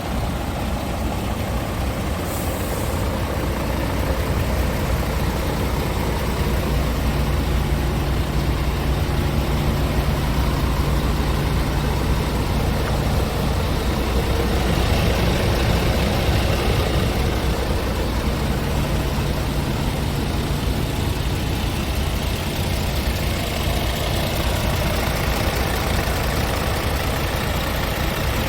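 Scania R490 truck's 13-litre inline-six diesel engine idling steadily, with a short hiss about two seconds in.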